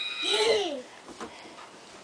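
A young child's brief wordless vocal sound, falling in pitch, in the first second, then a quiet room with a faint click.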